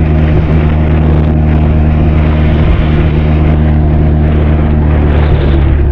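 Benelli TRK 502's parallel-twin engine running steadily at an unchanging pitch, its exhaust note picked up by a camera inside a saddlebag.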